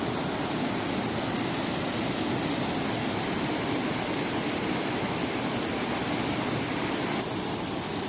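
Waterfall rushing: a steady, even roar of falling water that stops abruptly at the very end.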